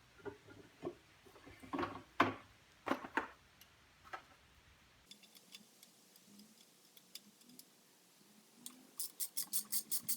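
Cast pulley guard being set onto an Atlas 73 drill press head: scattered metal knocks and clunks, loudest about two to three seconds in. Near the end, a quick run of sharp clicks, about five or six a second.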